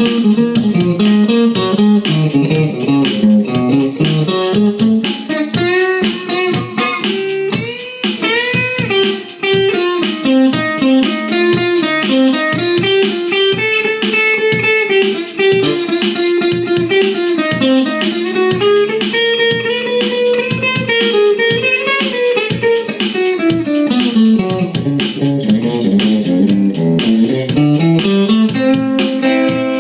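Guitar playing a blues piece: quick runs of single notes, with pitch bends around a third of the way in.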